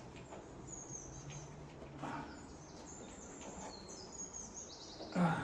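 Faint bird chirps in the background with a low steady hum and a few light clicks of parts being handled; a brief louder sound just before the end.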